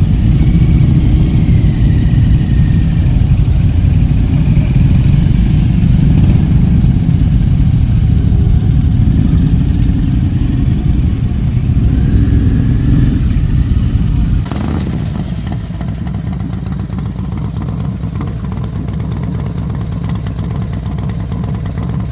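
Motorcycles running along the road, a steady, loud, low engine sound. About 14 seconds in, it changes abruptly to a quieter stretch of riding noise.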